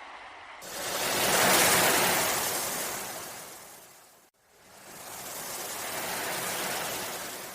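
Ocean waves washing in: two long swells of surf, the first starting abruptly about half a second in and the second following after a brief lull.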